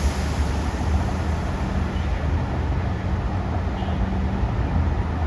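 Train running: a steady rumble with a low hum and an even wash of rolling noise.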